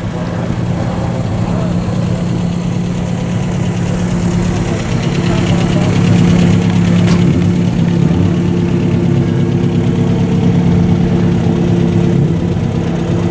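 An engine idling steadily at low speed, growing louder over the first few seconds and then holding steady.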